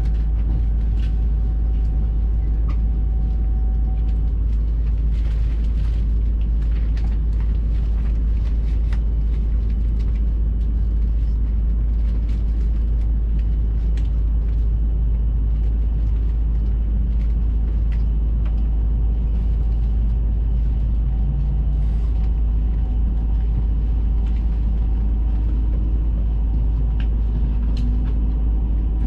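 Steady low rumble of a Hayabusa Shinkansen train running at speed, heard inside the passenger cabin, with faint scattered ticks over it.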